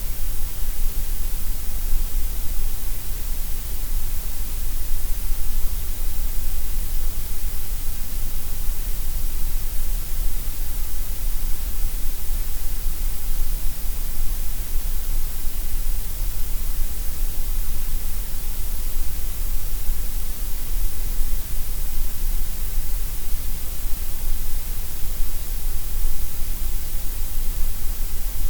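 Steady synthetic gray noise: an even, unbroken hiss with extra weight in the deep lows and the highs and less in the middle.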